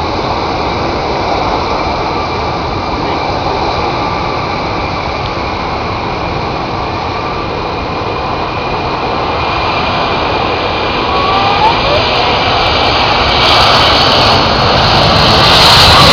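Boeing 747-400's four jet engines at takeoff power, a steady roar as the airliner accelerates down the runway, growing louder over the last few seconds.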